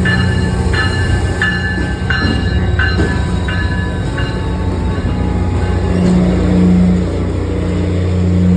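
Steady low rumble of a train's diesel engine, with background music notes about two a second during the first half.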